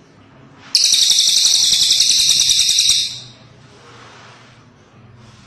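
A cililin bird calling: one loud, high, rapid buzzing trill that starts suddenly about a second in and lasts about two seconds.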